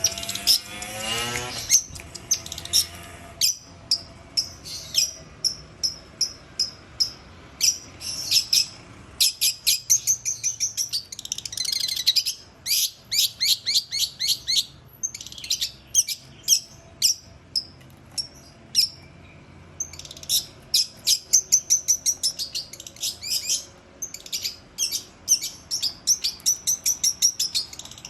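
Long-tailed shrike (cendet) singing actively, in rapid runs of sharp, chattering notes broken by short pauses. A brief rising sound joins it near the start.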